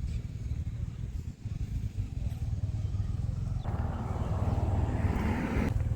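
Jet noise from the Red Arrows' BAE Hawk jets over a steady low rumble. The jet sound swells about four seconds in, then cuts off abruptly just before the end.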